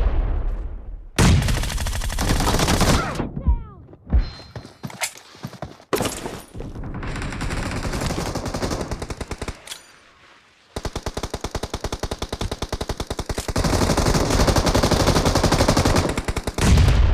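Video-game gunfire: heavy shots and short bursts in the first half, then a long, rapid, evenly paced run of automatic weapon fire from a little past the middle to the end.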